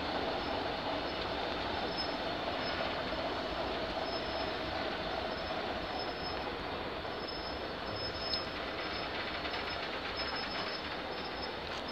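Freight train of type 418V side-dump wagons rolling slowly while braking to a stop, with brake and wheel squeal coming and going over a steady rolling rumble. There is a single short click about eight seconds in.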